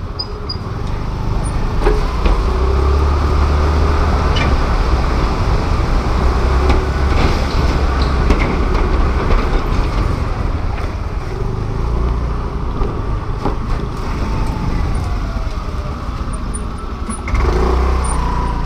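Steady road traffic noise with a heavy, fluctuating low rumble.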